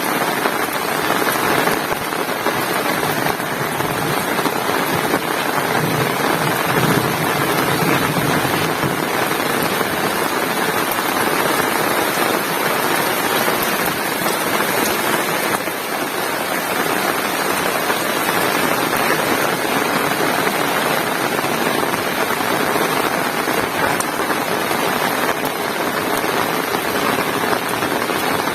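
Heavy rain pouring steadily, an even hiss of drops with no letup.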